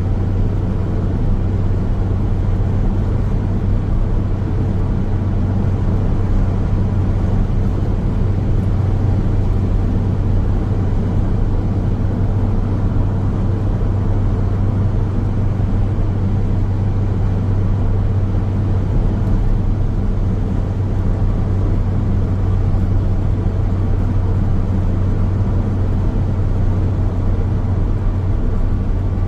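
A car driving along a road: steady, unbroken road and tyre noise with a low drone underneath.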